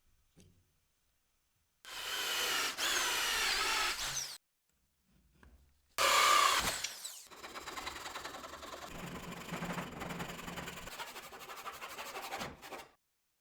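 Handheld electric drill working wood, run in two bursts. The first is short and its pitch wavers as the motor speed changes. The second starts loud and settles into a steadier run of several seconds.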